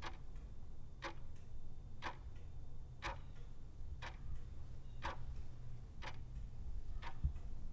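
Clock ticking once a second, eight ticks in all, over a low steady hum, used as a countdown-timer sound effect.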